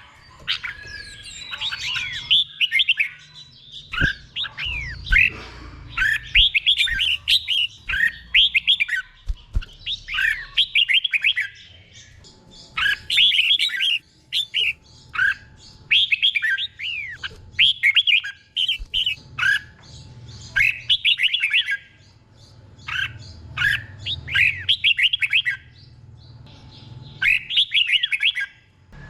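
Red-whiskered bulbul singing: quick runs of short, gliding whistled phrases, repeated over and over with brief pauses between them. A low rumble comes and goes underneath.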